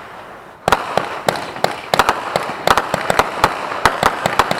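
Consumer fireworks going off: after a fading crackle, a rapid, irregular run of sharp cracks starts under a second in and keeps going, several a second.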